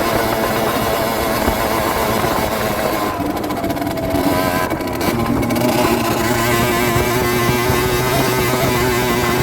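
Rieju Drac 50's 50cc two-stroke engine running under way, easing off about three seconds in, then picking up again and holding steady revs.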